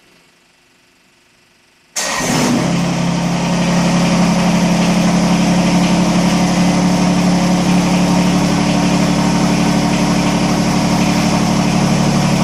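Kubota BX25D compact tractor's three-cylinder diesel engine starting about two seconds in, then running at a steady idle.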